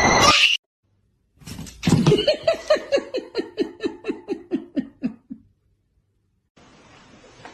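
A run of laughter, quick 'ha-ha-ha' pulses at about four a second that slowly fall in pitch and fade out over about four seconds. Just before it, a loud noisy sound cuts off suddenly.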